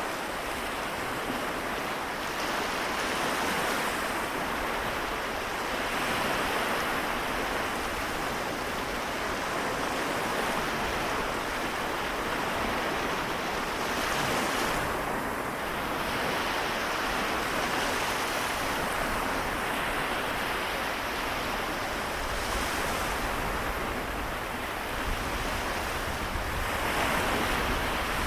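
Small waves breaking and washing on a Seto Inland Sea shore, the surf swelling and easing every few seconds, with a low rumble coming in near the end.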